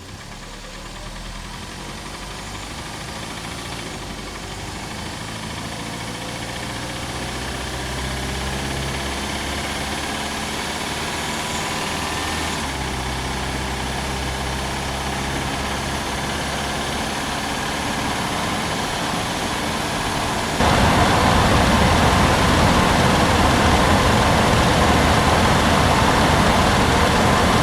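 1991 Toyota Camry engine running, heard from inside the closed engine bay, with the noise the owner is trying to pin down as either bottom-end rod knock or top-end valve noise. It grows slowly louder, then about three-quarters of the way through it suddenly steps up much louder and noisier.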